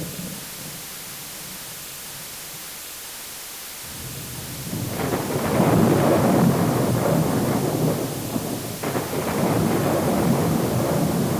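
Thunder rolling over a steady hiss of rain: after a few seconds of hiss, a long rumbling peal builds up, and a second peal breaks in near the end.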